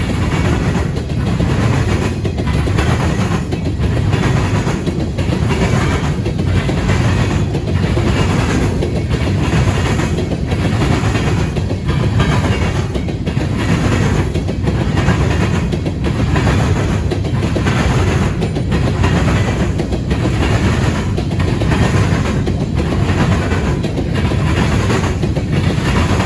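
Freight cars of a loaded grain train rolling past, their steel wheels clattering over the track in a steady rhythm of about one beat a second.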